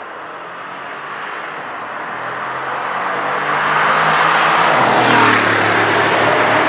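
Mercedes-Benz ML63 AMG's V8 engine and tyres as the SUV drives by at speed, growing louder as it approaches and dropping in pitch as it passes about five seconds in.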